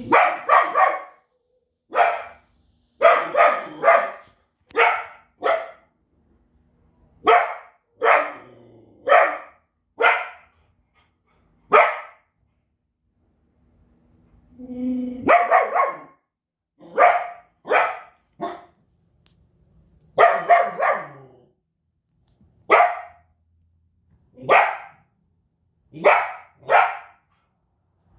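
Belgian Malinois barking loudly and repeatedly, in sharp single and double barks, in two bouts with a short pause about halfway.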